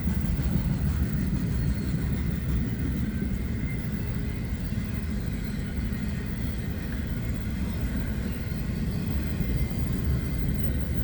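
Double-stack intermodal freight train rolling past, its wheels on the rails making a steady low rumble.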